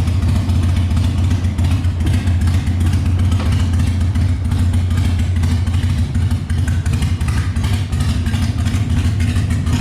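Motor vehicle engine running steadily at a constant speed, a low hum with rattling throughout.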